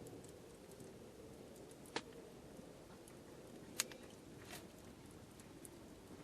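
Wood campfire burning, with a few sharp crackling pops over a faint, steady hiss.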